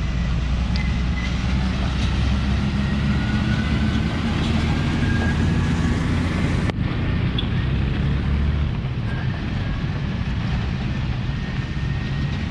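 Motor vehicle engine running steadily with road noise. A single sharp click comes about halfway through.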